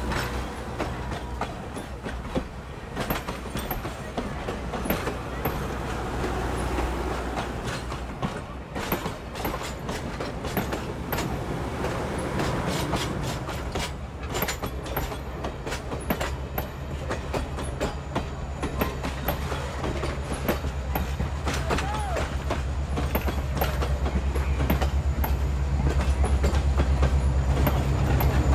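Excursion train rolling by, its wheels clicking irregularly over rail joints, over a steady low engine drone that grows louder toward the end.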